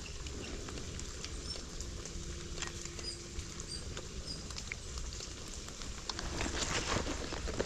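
Steps on a wet trail over a steady low rumble, with scattered ticks and drips; the steps grow more frequent and louder near the end.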